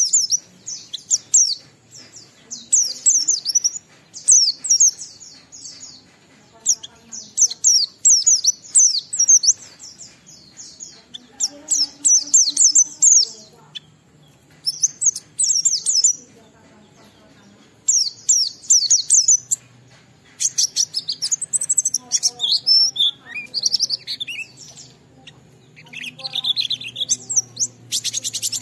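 White-eye (pleci) singing in rapid, high-pitched chirping phrases, bursts of a second or two separated by short pauses, with some lower sweeping notes in the later part. This is the full, vigorous song used as a lure to set other white-eyes singing.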